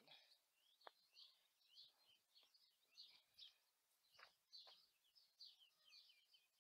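Faint songbird song: many quick, high chirps and twittering notes from small birds, with a few soft ticks among them.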